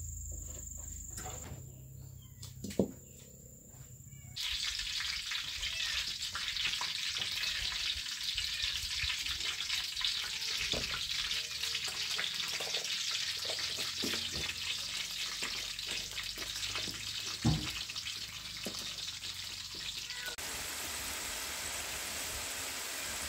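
Crinkle-cut potatoes frying in hot oil in a wok: a loud, steady sizzle that starts suddenly about four seconds in, with occasional clicks. Before it, a quieter steady high insect drone and one sharp knock.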